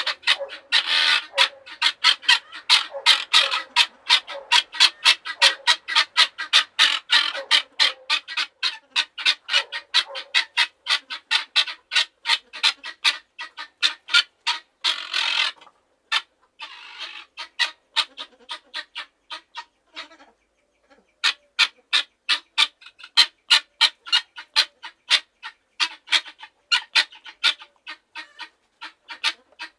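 Farmyard fowl giving rapid, repeated harsh calls, about three to four a second, with a longer call about halfway through and a brief lull a little later.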